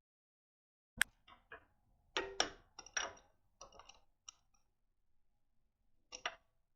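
Small hard parts clicking and clattering as they are handled: a sharp click, a busy run of short clicks and rattles, then a quick double click near the end.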